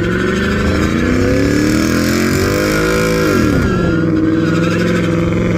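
Car engine revving hard during a burnout, its pitch climbing for about three seconds and then dropping sharply before holding steady at high revs, with a high wavering squeal from the spinning tyres.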